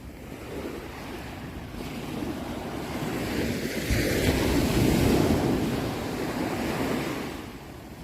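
Ocean surf: a single wave swells, breaks about four seconds in and washes out, dying down near the end.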